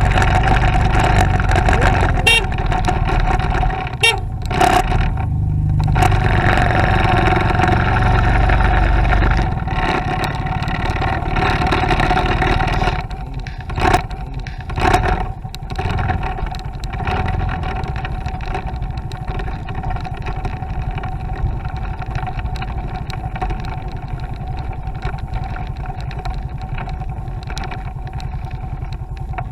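Motorcycle engine running steadily while riding, with a constant hum and low road rumble. A few brief knocks about four and fourteen seconds in.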